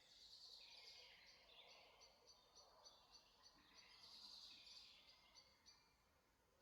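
Faint forest birdsong from more than one bird. Two busy, warbling song phrases come about three and a half seconds apart, with a run of short, evenly repeated high notes between them, over a soft background hiss.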